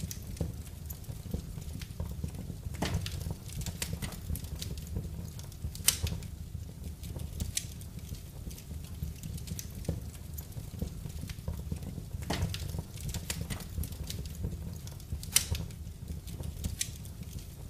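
Wood fire burning in a fireplace: irregular crackles and sharp pops over a low, steady rumble of the flames, with the loudest pops about six seconds in and again about fifteen seconds in.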